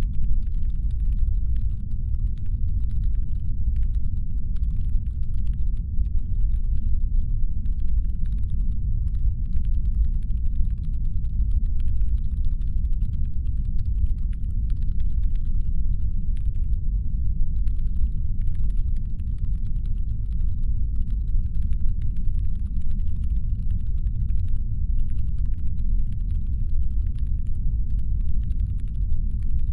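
Steady, deep brown-noise rumble made as a science-fiction spaceship's engine hum, with a faint layer of rapid, irregular clicking above it.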